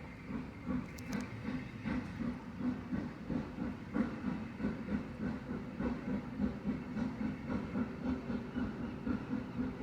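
Steam locomotive working with a steady, regular exhaust beat, about two beats a second, over a continuous hiss.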